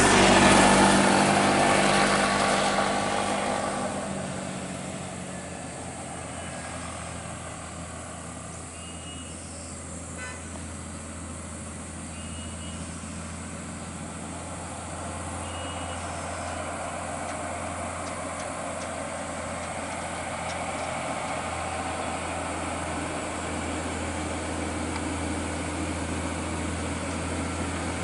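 A vehicle passes loudly at the start and fades away over about four seconds, leaving a truck engine running steadily with a low, even hum.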